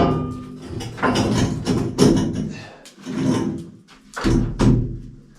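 Irregular series of heavy knocks and thuds of wooden boards being handled and fitted, about eight hits with a short ringing after each, dying away near the end.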